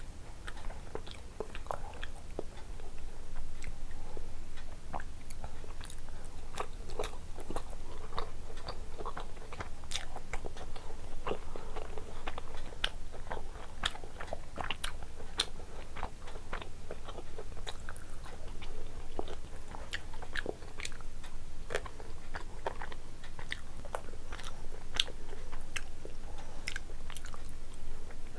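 Close-miked chewing and wet mouth clicks of a person eating rice and curry, with many short, irregular smacks and crackles, alongside fingers squishing rice into thick gravy.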